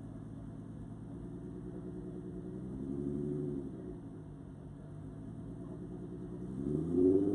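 Audi A3's six-cylinder turbo engine idling at the drag strip start line, revved up once briefly a few seconds in and dropping back, then revved up again near the end and held higher, ready for the launch.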